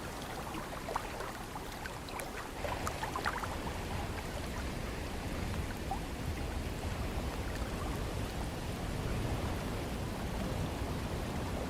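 Ocean surf washing and hissing with a steady low rumble of wind, and scattered small crackles of water in the first three seconds.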